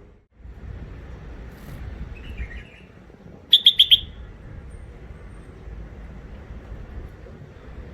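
Bulbul giving a short, soft chatter and then a burst of four sharp, loud chirps about three and a half seconds in, over a steady low rumble.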